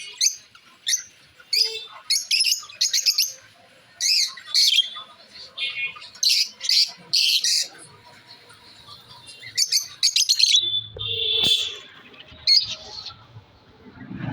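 Small pet parrots calling in a rapid series of short, high-pitched chirps, with a longer held call about eleven seconds in.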